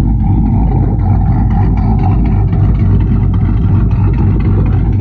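Pickup truck engine running steadily, low-pitched and loud, with no change in speed.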